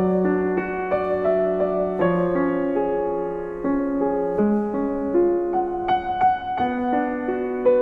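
Soft piano music: slow notes and chords, each left to ring before the next.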